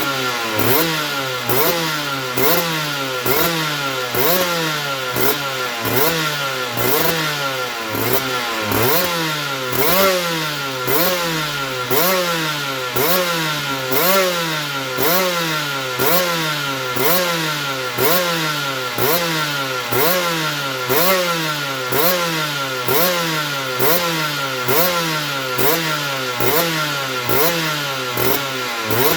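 Aprilia RS125 single-cylinder two-stroke engine running, its speed rising and falling over and over in a very regular cycle, about three times every two seconds.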